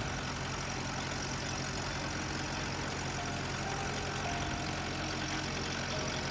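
Farmall B tractor engine running steadily under load, driving a PTO generator that feeds a large electric heater: a freshly rebuilt engine being broken in.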